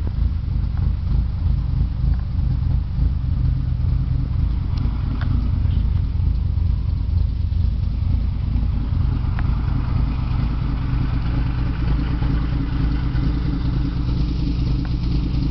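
Toyota AE86's four-cylinder engine idling steadily through a newly welded exhaust with an aftermarket muffler.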